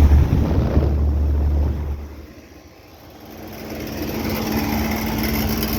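Outdoor air-conditioner condenser units running. A heavy low rumble of a condenser fan's airflow lasts about two seconds, then fades. A steady hum from another running unit builds up about three seconds in.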